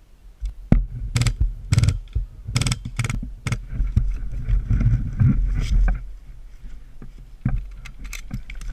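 A run of sharp knocks and thumps, roughly two a second, over a low rumbling noise; they ease off about six seconds in, and a few more knocks come near the end.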